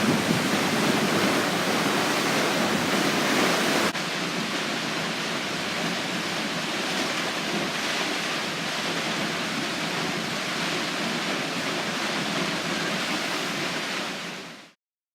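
Waterfall on the River Ure at Aysgarth Falls, its falling water making a steady, loud rushing. About four seconds in the sound drops abruptly to a slightly quieter rush, and it fades out shortly before the end.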